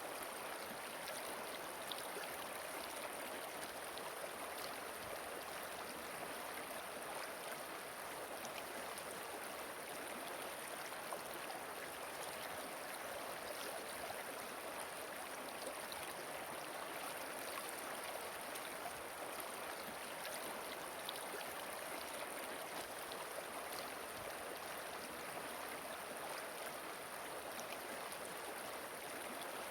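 Flowing river water, a steady, unbroken rush.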